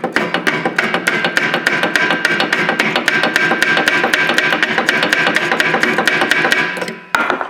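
Rapid hammer strikes on steel, about seven a second, with a metallic ringing, as a seized, rusted brake bleeder is tapped to shock it loose. The strikes stop abruptly near the end.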